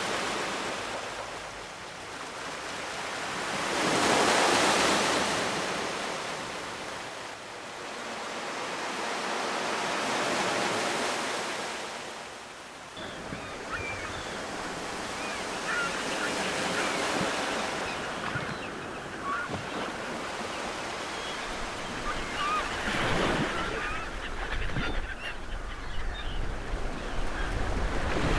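Ocean surf: waves washing in, swelling up and falling away twice in the first half. From about halfway, steadier surf with many short bird calls over it, and a low wind rumble near the end.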